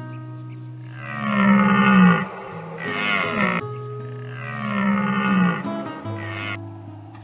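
An animal calling four times, long and short calls in turn, each a drawn-out pitched cry, over soft background music.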